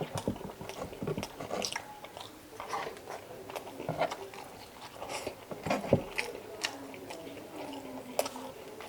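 Close-miked chewing and biting of chicken adobo: irregular wet smacks and clicks of the mouth, the strongest about six seconds in.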